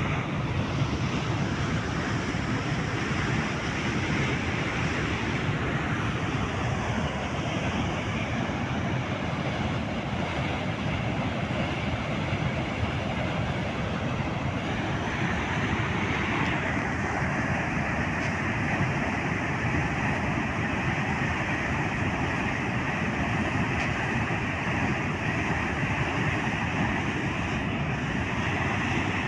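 Floodwater rushing over a canal in a steady, dense, unbroken rush.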